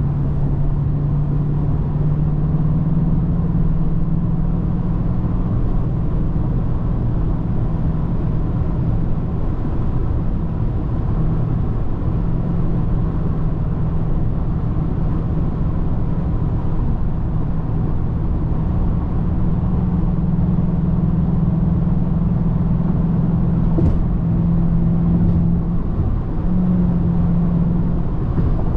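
Hyundai Genesis 4.6-litre V8 engine and exhaust droning steadily while the car drives, with road noise underneath; the pitch steps up slightly a few times. One sharp click late on.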